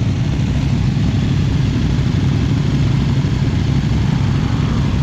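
CFMoto CL-C 450 motorcycle's 449cc twin-cylinder engine running steadily at an even, low pitch with no revving.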